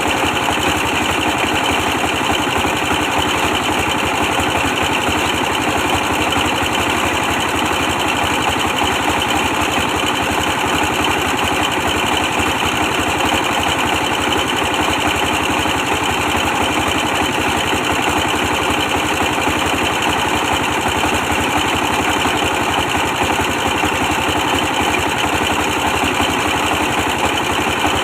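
A 24 hp stationary diesel engine running steadily at a constant speed, with a fast, even beat and no change in pitch or load.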